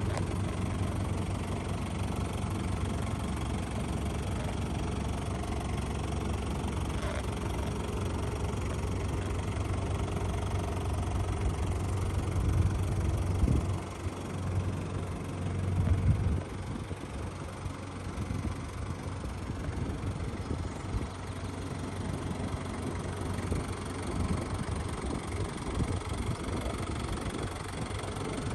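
Toyota 1KZ-TE four-cylinder turbo diesel idling steadily, with two brief louder swells about halfway through.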